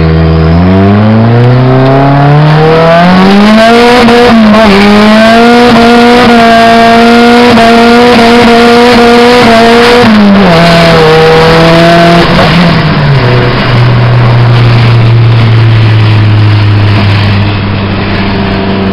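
1992 Honda Accord's four-cylinder engine heard from inside the cabin, revved hard under full acceleration. Its pitch climbs over the first few seconds and holds high, then drops about ten seconds in and again a few seconds later as it eases off. The engine has low compression from worn piston rings and a bad block.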